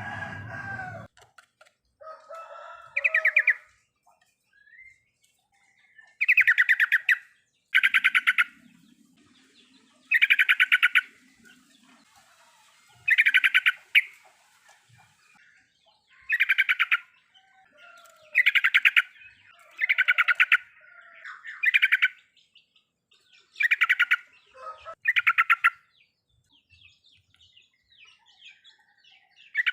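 Yellow-vented bulbul (trucukan) singing its 'riwikan' song: about a dozen short bursts of rapid chattering notes, each under a second long, repeated every second or two.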